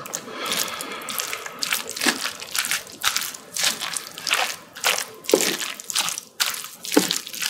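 Close-miked eating sounds of spicy bibimbap and kimchi being chewed: a steady run of irregular mouth smacks and clicks, a few of them sharper and louder.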